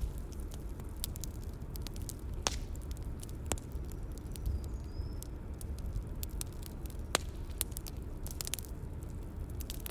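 Bonfire crackling: a steady low rumble of burning with scattered sharp pops and snaps, a few standing out about two and a half, three and a half and seven seconds in.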